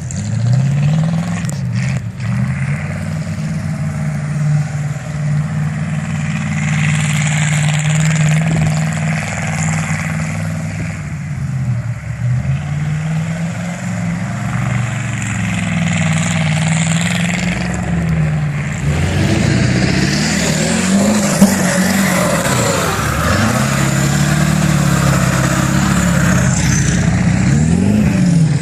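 Pickup truck engine revving up and down again and again while the truck drifts in snow, the rises and falls coming quicker near the end.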